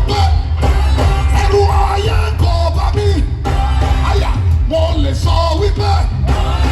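Live gospel worship music played loud: voices singing over a band with a heavy, continuous bass.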